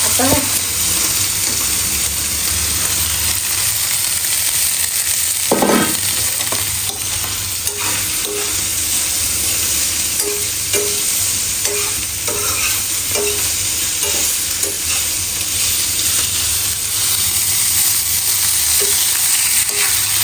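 Homemade paneer frying in a pan, sizzling steadily, with a brief louder sound about five and a half seconds in and a few short faint sounds after it.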